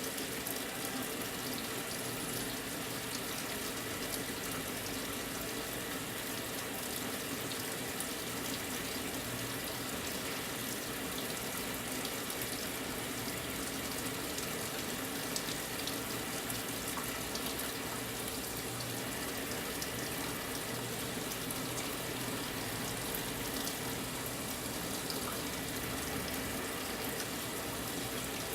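Brastemp 9 kg washing machine filling its tub with water for the high water level: a steady rush of water pouring in.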